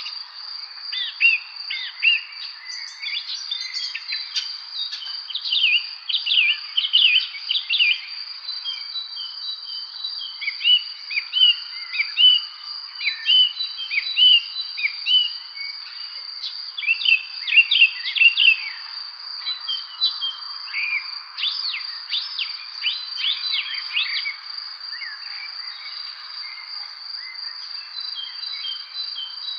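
Evening spring birds chirping and singing in a busy chorus of short, quick notes over a steady high-pitched insect trill and a soft background hiss. The bird calls thin out near the end.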